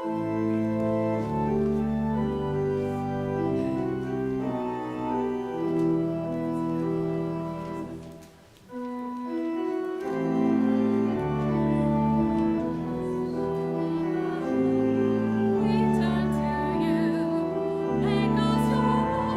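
Pipe organ playing slow sustained chords over held bass notes, breaking off briefly about eight seconds in and then going on. A singing voice starts to come in over it near the end.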